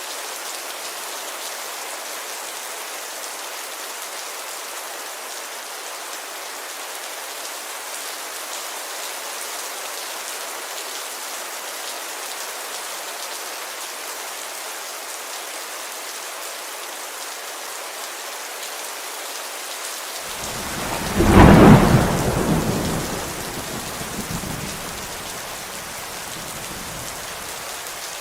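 Steady rain falling on a window glass. About three quarters of the way through, a single loud thunderclap breaks in, and its rumble dies away over a few seconds.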